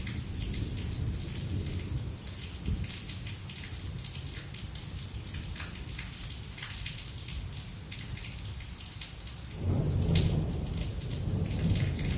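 Heavy thunderstorm rain falling steadily, with many sharp drop impacts close by. About ten seconds in, a low rumble of thunder rolls in and keeps going.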